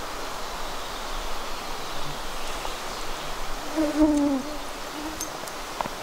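A bird's low hooting call about four seconds in: a short pitched note that dips at its end, over a steady hiss. A brief sharp click comes near the end.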